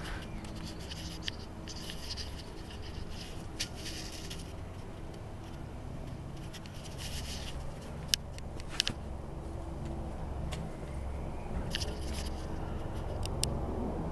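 Light scraping and rubbing with a few sharp clicks over a low steady hum.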